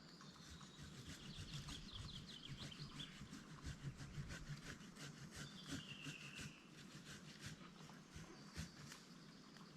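Faint, irregular crackling and rustling of woody brush being handled and cut, with small birds singing: a fast trill in the first few seconds and a falling whistled phrase about six seconds in.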